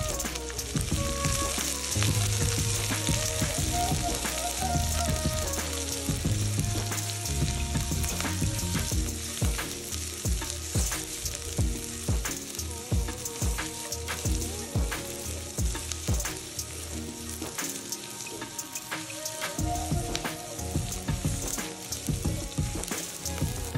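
Crushed shallots and curry leaves frying in a nonstick wok with a steady sizzle. From about a third of the way in, a silicone spatula stirs them, adding frequent short scrapes and taps against the pan.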